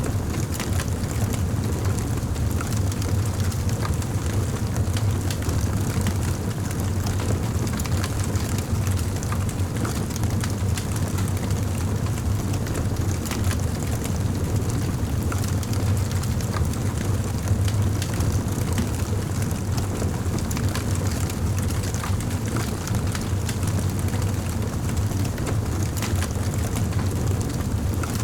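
Wood fire burning in a fireplace: a steady low roar of flames with frequent small crackles and pops throughout.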